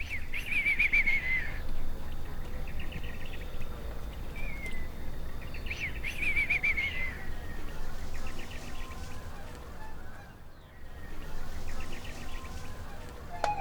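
Birds calling: two louder rapid, chattering calls that fall in pitch, early on and about six seconds in, with fainter runs of chirps between them, over a steady low rumble.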